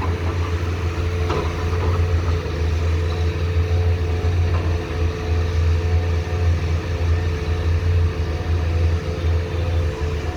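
Komatsu PC210 hydraulic excavator's diesel engine running steadily, a constant low drone with a steady higher tone above it.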